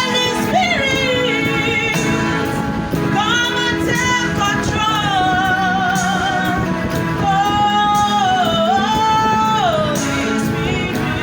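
Gospel song: a singer holding long notes that waver and slide between pitches, over steady instrumental accompaniment.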